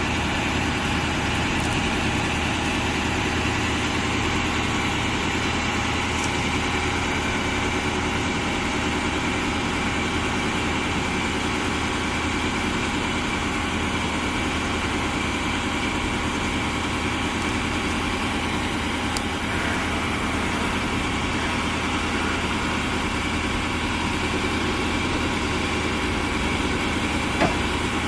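2008 Ford F550's 6.4-litre V8 diesel engine idling steadily, with one brief click near the end.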